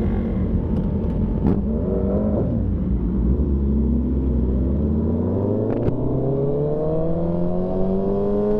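Motorcycle engine under way: its pitch falls for a moment about two seconds in, then rises steadily for the rest of the time as the bike accelerates through a gear.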